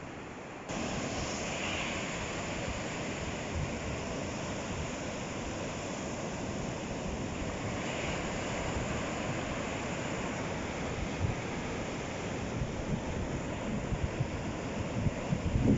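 Ocean surf: waves breaking and washing on the shore as a steady rush of noise. It steps up suddenly under a second in and swells near the end.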